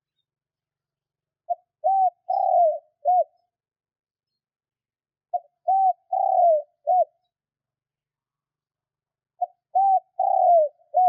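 Spotted dove cooing: three phrases about four seconds apart, each made of four notes, the third note the longest and falling in pitch.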